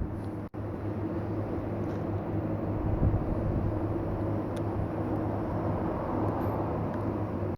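Steady low mechanical hum at a constant pitch, briefly cut off about half a second in.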